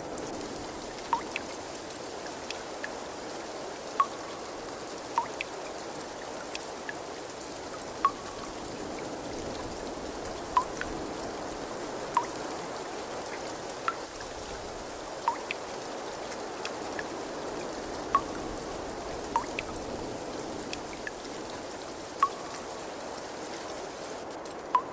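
Water trickling steadily, with single drops plinking into water every second or two.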